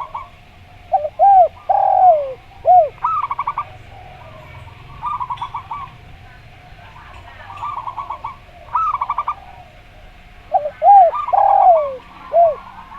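Zebra dove and spotted dove cooing in turn. The zebra dove repeats short, rapid staccato trills of coos several times. The spotted dove gives two louder phrases of three or four arching coo notes, the middle note drawn out, one about a second in and one near the end.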